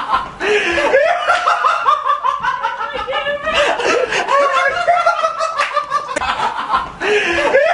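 Laughter in long runs of quick, high-pitched ha-ha-ha pulses, breaking off briefly a few times.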